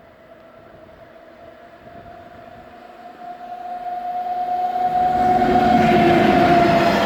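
EP07 electric locomotive hauling an express passenger train as it approaches at speed, growing from faint to loud over about five seconds. A steady high tone carries through and rises slightly in pitch as the train nears, under a growing rush of wheel and rail noise.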